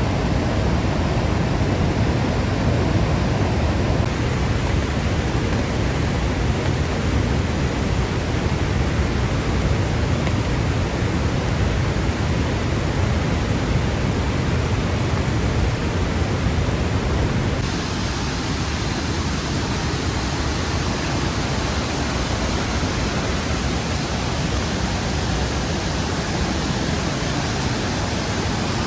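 Steady rush of heavy rain and waterfall. About two-thirds of the way through, the sound turns brighter and hissier, with less low rumble.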